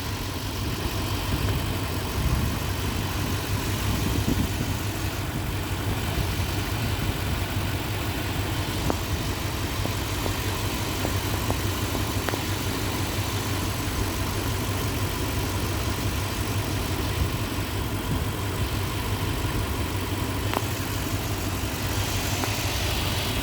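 2003 Toyota Tundra engine idling steadily, with no revving.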